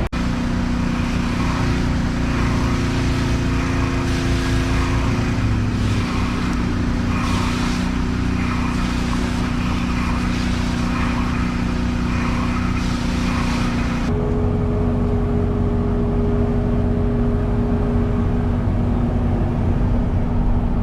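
Excavator's diesel engine running steadily, with an abrupt change in the engine sound about two-thirds of the way through.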